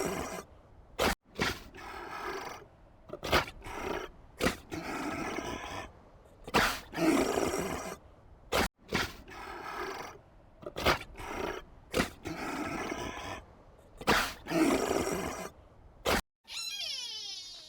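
An animal calling over and over, each rough, noisy call lasting a second or two and coming back about every three to four seconds, with sharp clicks in between. About sixteen seconds in, it cuts off and a different, higher call with quick rising and falling notes begins.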